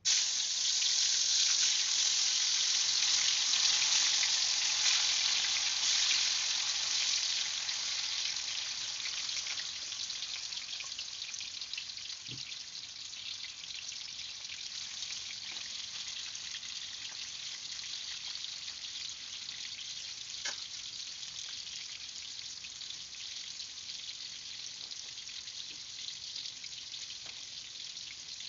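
Tofu pieces frying in hot oil in a wok: a loud sizzle as the pieces go in, easing after about eight seconds into a steadier, quieter sizzle, with an occasional small pop from spattering oil.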